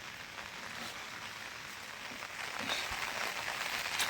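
Rain falling steadily with a scatter of drop ticks, growing louder a little over halfway through, with a sharp click near the end.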